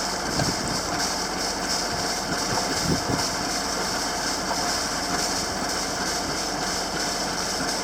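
A sailboat's inboard engine running steadily under way, a constant drone mixed with wind and water noise.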